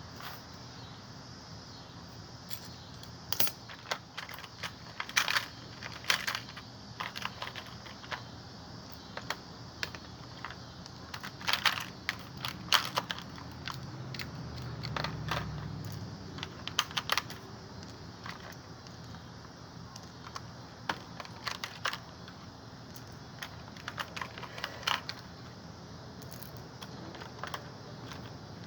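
Irregular light metallic clicks and clinks of hand tools and fasteners on an ice maker's sheet-metal parts as a metal piece is worked loose. A faint low rumble comes in about halfway through.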